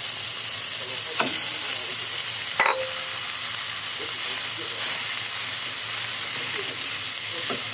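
Food sizzling in oil in a nonstick wok as cooked white rice is stirred into frying minced pork, carrots and green beans with a wooden spatula. A steady sizzle, with a few sharp knocks, the loudest about two and a half seconds in.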